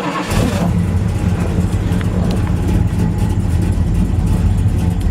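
Cold 383 cubic-inch V8 engine catching from the starter about a quarter second in, then running at a steady idle through long-tube headers and a dual exhaust.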